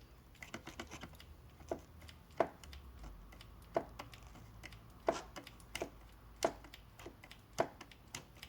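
Steering column knocking: a sharp knock about every second and a half, six in all, with lighter clicks between, from play in the steering before a washer is fitted to take it up.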